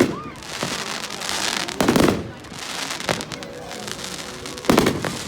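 Fireworks bursting overhead: loud sharp bangs every second or so, the heaviest about two seconds in and near the end, with crackling and hiss between the bursts.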